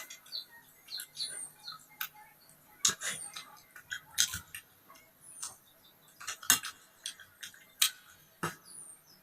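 Eating sounds: irregular sharp clicks and crunches of chewing and utensils. A small bird gives short high chirps every couple of seconds in the background.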